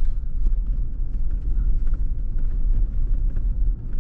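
Off-road vehicle driving on a rough dirt road: a deep, steady rumble with scattered clicks and rattles.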